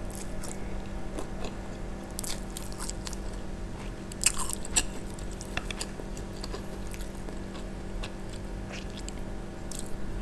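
Close-miked mouth sounds of eating instant fried noodles with cassava leaves: steady chewing broken by many small crisp clicks, with two sharper crunchy bites about four and a half seconds in.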